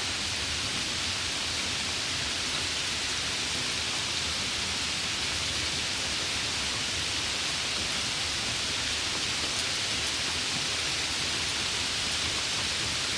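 Steady summer rain, an even hiss with no separate drops or thunder standing out.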